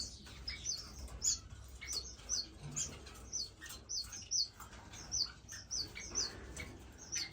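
Captive finches in a bird room chirping: short, high calls that each fall in pitch, several birds calling two or three times a second.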